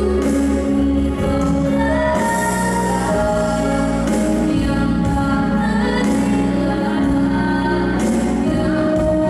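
A woman singing a slow melody with held notes over instrumental accompaniment.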